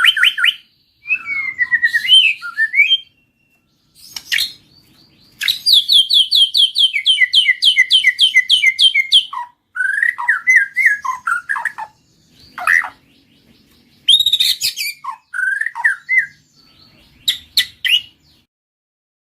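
White-rumped shama singing: loud phrases of fast repeated trilled notes and short whistled glides, broken by brief pauses.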